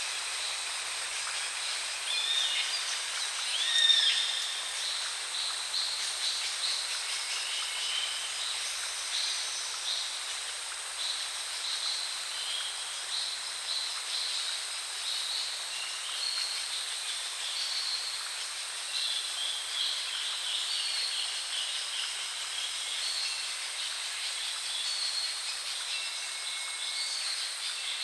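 Several wild birds calling, with short chirps and whistles, over a steady high-pitched insect drone. One louder swooping call comes about four seconds in.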